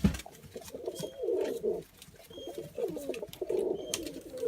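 Pet doves cooing, about five low rolling coos one after another. A short knock sounds right at the start, and a faint high chirp is heard now and then.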